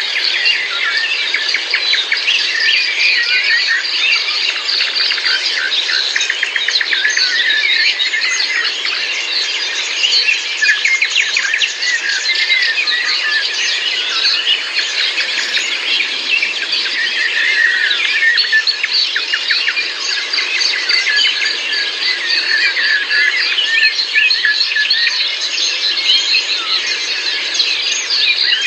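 Dense chorus of many birds singing and chirping at once, a continuous tangle of short high calls and trills.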